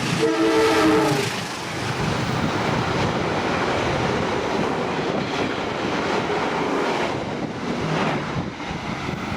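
Train horn sounding once for about a second, then a train running past on the rails with continuous wheel and rail noise.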